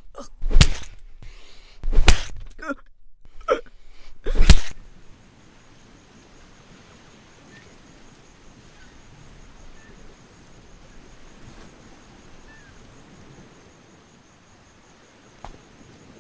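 Four loud, short vocal outbursts in the first five seconds, cries and gasps of a struggle. Then a faint steady background hiss with a thin, high, evenly pulsing tone.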